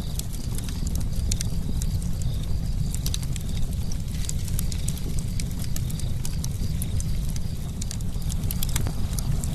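Campfire burning: wood crackling and popping in many irregular sharp snaps over a steady low rumble.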